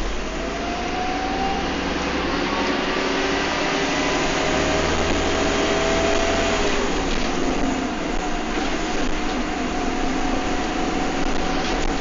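Bus running at speed, heard from inside the saloon: road and drivetrain rumble with a whine that climbs slowly in pitch, drops sharply about seven seconds in, then climbs again.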